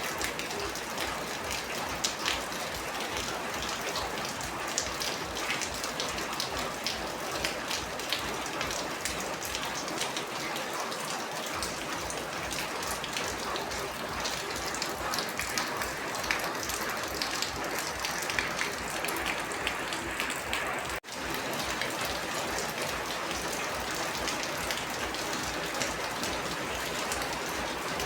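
Heavy rain falling steadily: a dense, even hiss full of close drop patters. The sound cuts out for a split second about three-quarters of the way through.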